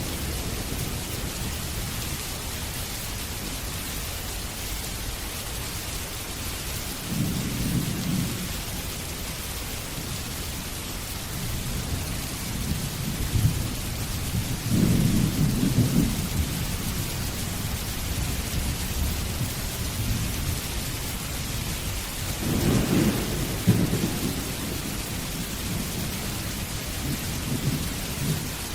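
Steady heavy rain with rolling thunder: low rumbles swell up several times, the strongest about halfway through and again near the end.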